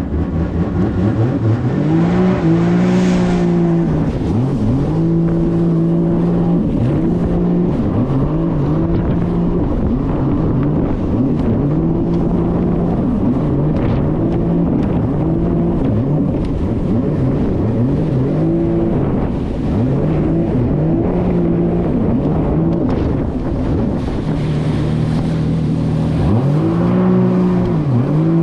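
1800cc four-stroke jet ski engine running hard, its pitch rising and falling over and over as the throttle is worked, over a steady rush of wind and water.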